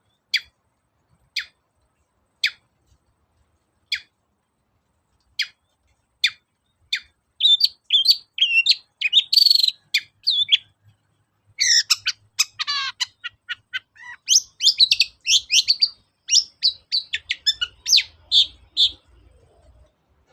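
Long-tailed shrike (cendet) calling: single sharp, falling notes about once a second, then breaking into a fast, varied chattering song with trills from about seven seconds in.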